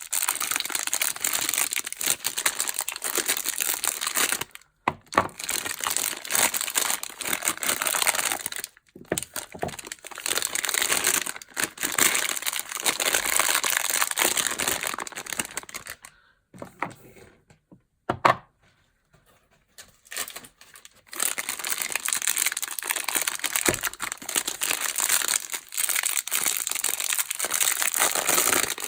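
Soap packaging crinkling and tearing as bars are unwrapped by hand, in long stretches with short pauses. There is a quieter lull past the middle with a single sharp click.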